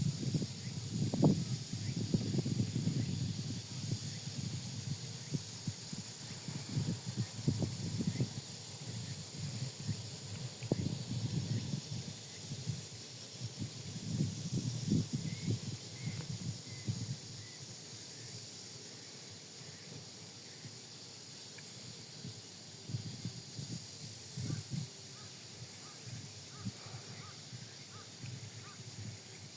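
Outdoor ambience: wind buffeting the microphone in irregular low gusts that ease off after about seventeen seconds, over a steady high chirring of insects.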